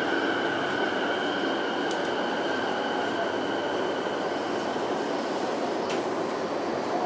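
Inside an electric commuter train braking into a station: steady running noise with a high whine that fades away as the train comes to a stop about six seconds in, followed by a single click.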